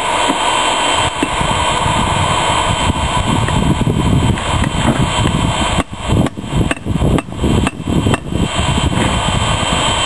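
Hammer blows on steel being forged, over a steady rushing noise, with several short breaks in the sound about six to eight seconds in.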